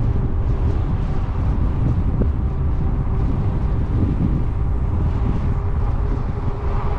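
Wind buffeting the microphone of a moving e-bike, over a steady low rumble of riding noise. A faint steady hum comes in about halfway through.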